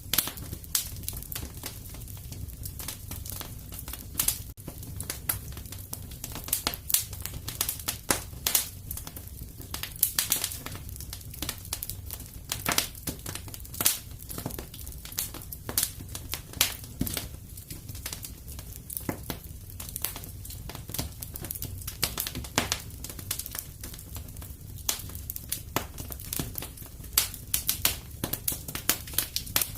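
Wood fire crackling in a fireplace: dense, irregular pops and snaps, some sharper than others, over a steady low rumble.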